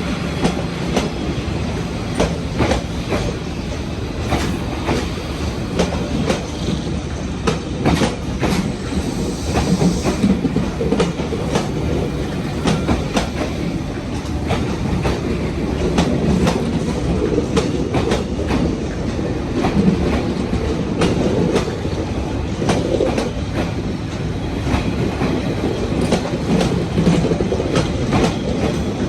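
Passenger train carriages rolling past at speed, a steady rumble with wheels clacking over rail joints many times.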